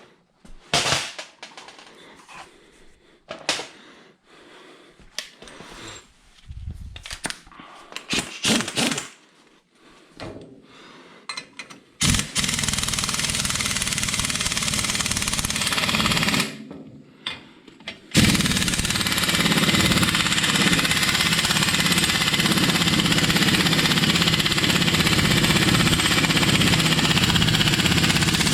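Scattered clanks and knocks of tools being handled, then an impact wrench hammering in two long runs: one starting about halfway through and stopping briefly, the other starting again soon after and going on to the end.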